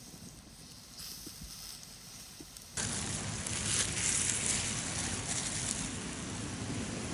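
Faint crackling of a wood campfire, then an abrupt cut about three seconds in to a much louder steady hiss.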